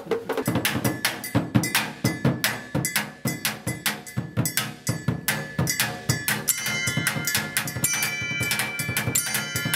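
Percussion ensemble playing a quick, dense run of drum strokes. From about six and a half seconds, ringing metallic pitched tones join the drumming.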